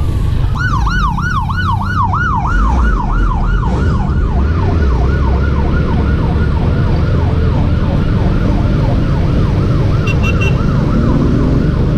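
Emergency vehicle siren in a fast yelp, about three rising-and-falling sweeps a second, starting about half a second in and slowly fading away, over a steady rumble of street traffic.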